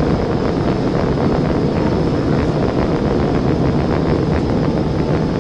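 Steady wind and road noise from a police patrol car driving at high speed during a pursuit, with the engine and tyres running underneath.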